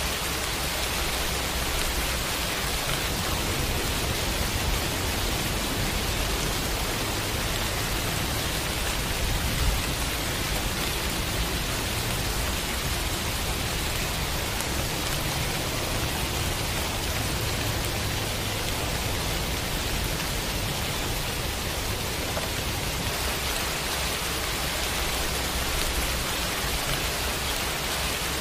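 Steady rain falling on leafy trees, an even hiss with no let-up. A single brief tap stands out about ten seconds in.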